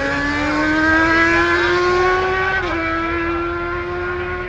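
Drag-racing motorcycle accelerating hard down the strip, its engine note climbing steadily. The pitch drops briefly at an upshift about two and a half seconds in, then rises again.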